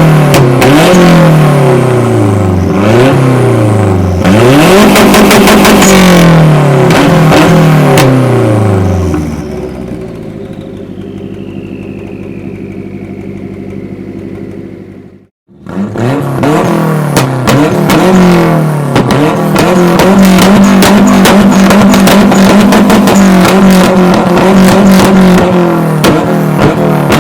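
Ford Sierra 2.3 16v turbo engine through a straight-pipe exhaust, blipped repeatedly with the revs falling back after each blip, then dropping to a quieter steady idle with a faint falling whistle. After a sudden cut to silence about halfway, it is revved again and held at steady high revs near the end, with crackling from the exhaust throughout.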